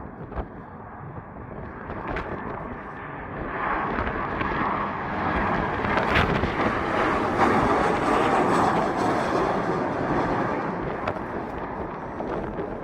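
Boeing 737 airliner's jet engines running as it lands, growing louder about a third of the way in, loudest near the middle, then easing off, with wind buffeting the microphone.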